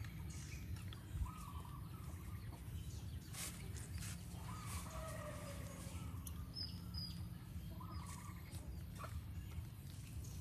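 Short, faint bird calls repeating every three or four seconds over a steady low outdoor rumble, with a few soft clicks.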